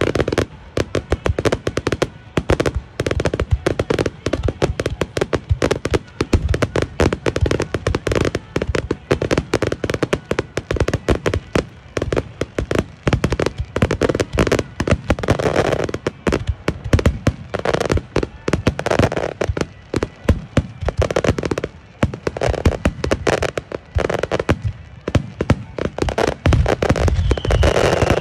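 Fireworks display: a rapid, unbroken barrage of shell bursts, several bangs a second with crackling between them.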